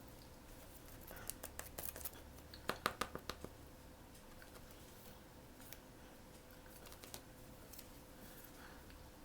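Blind-box packaging being handled and opened by hand: a quick run of sharp clicks and crinkles about a second in, loudest near three seconds, then quiet handling.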